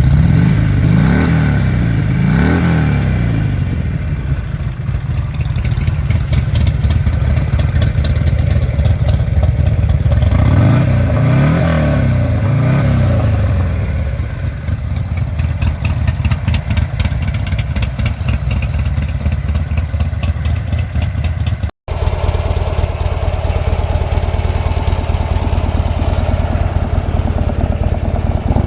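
Exhaust of a Buell XB-series V-twin motorcycle idling, with quick throttle blips near the start and again about ten seconds in. After a sudden cut about three-quarters through, a Buell XB12R's V-twin idles steadily.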